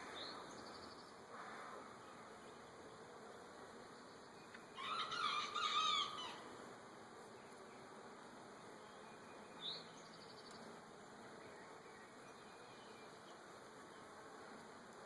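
Honey bees buzzing in an open hive, a faint steady hum. About five seconds in a bird calls loudly for a second or so, with a couple of short chirps elsewhere.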